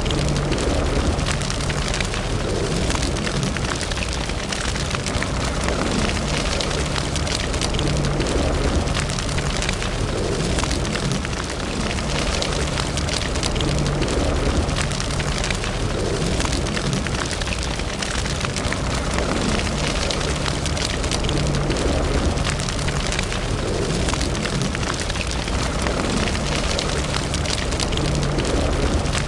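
Wood fire burning in a fireplace: a dense, continuous run of small crackles and pops over a steady low rumble.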